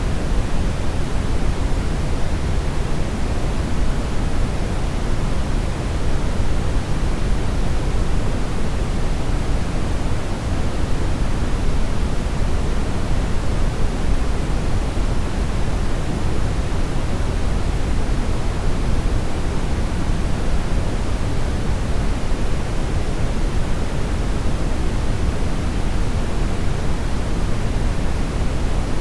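Steady synthetic brown noise: an even, deep rushing hiss, strongest in the bass and fading towards the treble, with no changes.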